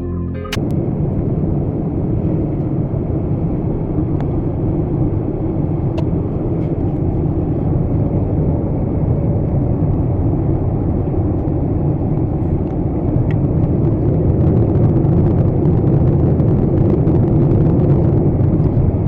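Jet airliner cabin noise: a steady low rumble that grows somewhat louder over the last few seconds.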